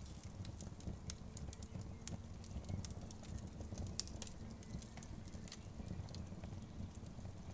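Wood fire crackling: many small, irregular sharp pops and snaps from burning logs over a low steady noise, with one stronger pop about four seconds in.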